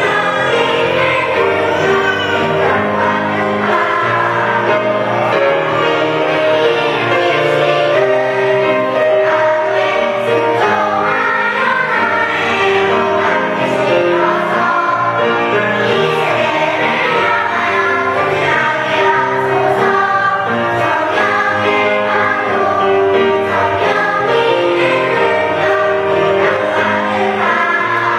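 Church choir singing a hymn in harmony with instrumental accompaniment, steady and loud throughout.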